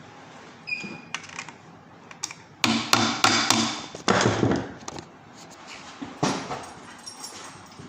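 Irregular knocks and taps on metal, in quick clusters, the loudest run in the middle and a single sharp knock near the end, from work on the mixer's broken shaft.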